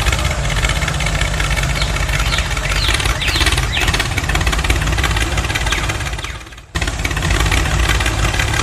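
Tractor engine running steadily, with a few short rising squeals a few seconds in. The sound fades and cuts out briefly about six and a half seconds in, then comes straight back.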